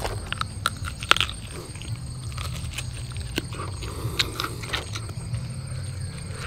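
A person biting into and chewing jackfruit flesh close to the microphone: irregular sharp clicks and crunches of the bites and chewing, over a steady low hum.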